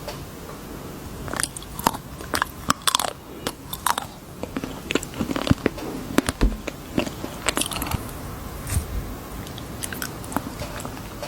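Close-miked ASMR chewing of crunchy candy: a string of sharp, irregular crunches starting about a second in.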